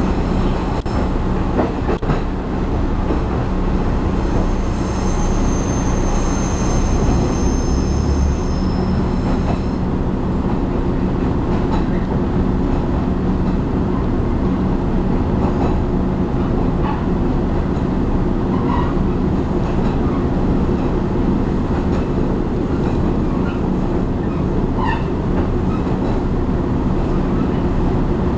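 Taiwan Railway diesel railcar running along the track, heard from inside the carriage as a steady rumble. High-pitched wheel squeal rings over it for about the first ten seconds and then stops, leaving the rumble with occasional light clicks.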